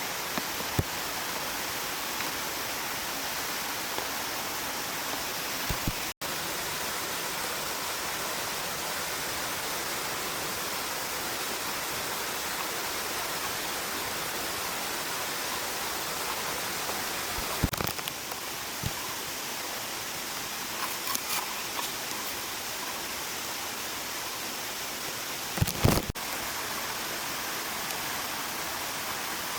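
Mountain stream rushing steadily, an even wash of water noise, with a few soft knocks at intervals.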